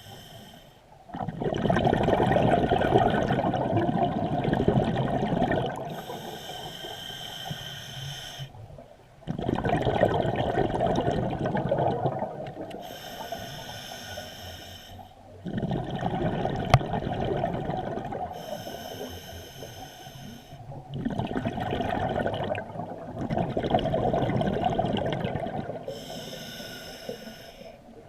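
Scuba diver breathing through a regulator underwater, in a steady cycle about every six seconds: a short, hissing inhale through the regulator, then a longer rumble of exhaled bubbles.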